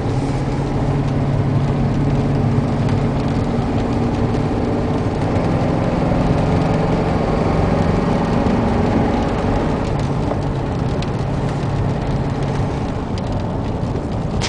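2002 Chevrolet 3500 heavy-duty truck driving on the road, heard from inside the cab: a steady engine drone with road and tyre noise. The seller says the engine has a miss, with the service engine soon light on.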